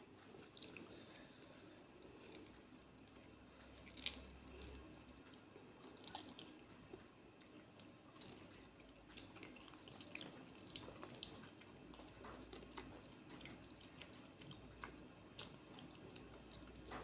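Faint close-miked eating sounds: chewing with scattered wet mouth clicks and smacks while fried fish and rice are eaten by hand. Two sharper clicks stand out, about four and ten seconds in.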